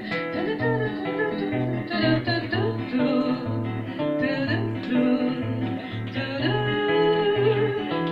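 Instrumental passage of a song: acoustic guitar playing over a steady, evenly repeating bass line.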